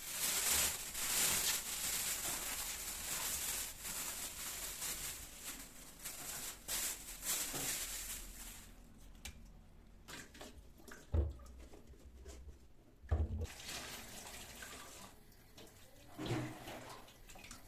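Kitchen tap running into a sink, then turned off about nine seconds in. After that come a few sharp knocks and another short run of water.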